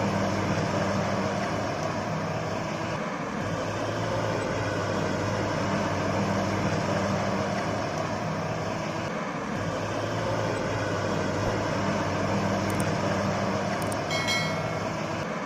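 An engine running steadily with a low drone, dipping briefly twice, with a short high-pitched tone near the end.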